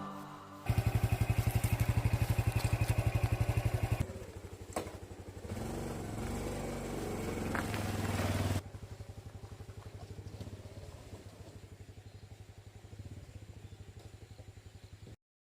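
Honda Super Cub 110 (JA59) single-cylinder four-stroke engine running with an even, rapid beat. It comes in abruptly about a second in and steps down after about three seconds. There is a click, then a few seconds of rising engine speed, then a sudden drop to a quieter steady beat that cuts off just before the end.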